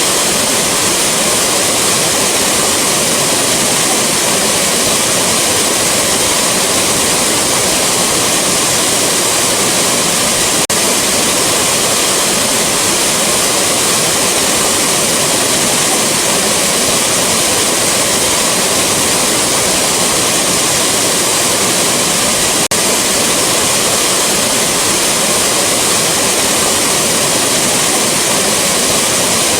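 Rushing waterfall: a loud, steady roar of falling water. The roar dips for an instant twice, with a faint tick each time.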